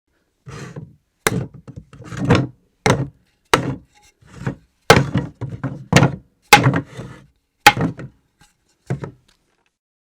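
Objects being dropped on a floor: a rapid, irregular run of knocks and thuds, some with a short clattering tail. They start about half a second in and stop a little after nine seconds.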